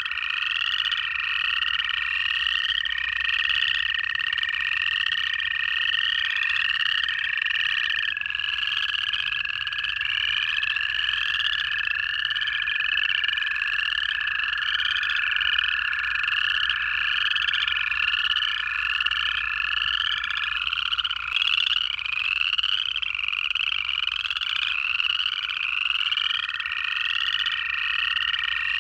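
Chorus of upland chorus frogs, many rising trills overlapping one another without a break. Under them run the long, steady trills of American toads: one carries on for about twenty seconds before stopping, a lower one joins for stretches, and a new one starts near the end.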